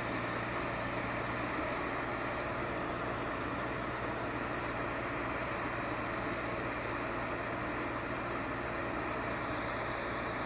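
A heavy vehicle's engine running steadily under load, a constant low hum beneath an even rushing noise with no change in pitch.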